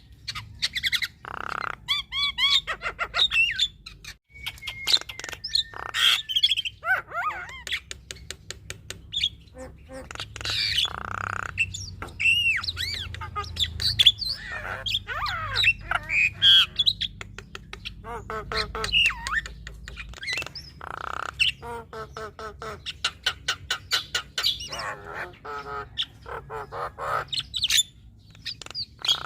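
Female Javan myna singing a long, varied chattering song: harsh rasping squawks about every ten seconds, with whistled glides, rapid clicking runs and chatter between them, the 'full isian' repertoire that mixes in imitated calls.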